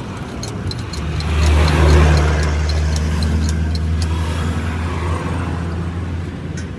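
A motor vehicle engine running close by, swelling about a second in, loudest around two seconds, then easing off slowly, like traffic passing the roadside. A light regular ticking, about three a second, runs under it for the first few seconds.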